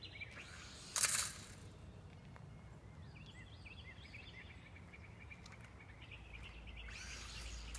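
Birds chirping repeatedly over a low steady outdoor hum, with a short loud rush of noise about a second in and another near the end.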